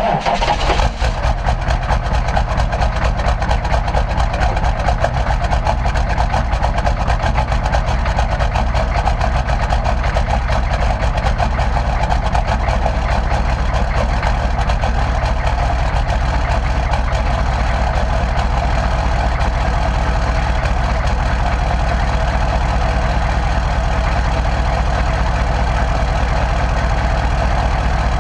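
Straight-piped 6.5-litre turbo-diesel V8 in a Chevrolet CUCV truck catching on a cold start at the very beginning, then idling steadily and loudly with a fast, even exhaust chatter.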